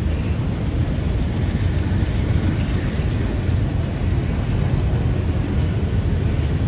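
Passing train: a loud, steady low rumble.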